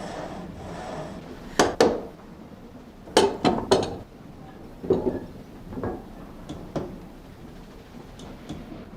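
A series of sharp, irregular knocks and clanks: two about one and a half seconds in, three in quick succession around three seconds in, then single ones, thinning to faint clicks near the end.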